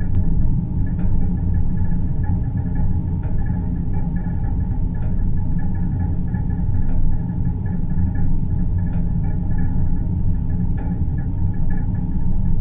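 Synthesized deep-space ambience: a steady, deep rumbling hum with a faint higher shimmering tone above it, and soft ticks about every two seconds.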